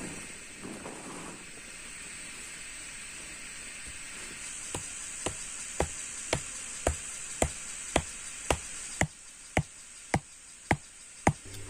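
Sharp knocks of a tool striking wood, evenly spaced at about two a second, starting about halfway through and running on some thirteen times.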